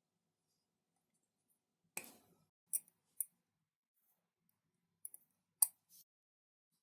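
Small hard objects handled on a workbench: a knock about two seconds in, then a series of sharp clicks and taps, the loudest near the end.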